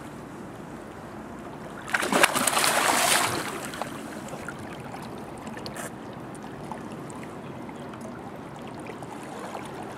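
Steady rush of flowing river water, with a louder noisy burst of splashing-like crackle about two seconds in that lasts a little over a second.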